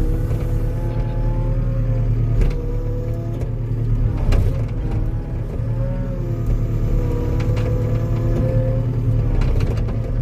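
Tracked skid steer's engine running steadily at raised throttle while pushing against a tree, with a wavering whine over the drone. Two sharp knocks come in the first half.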